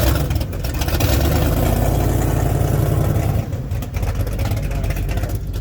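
Car engine with a loud exhaust rumble as the car rolls past, loudest for about the first three seconds, then easing off.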